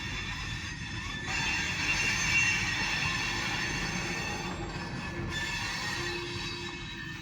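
Freight train rolling along the rails, its wheels giving a thin high-pitched squeal over a steady rumble that grows louder about a second in.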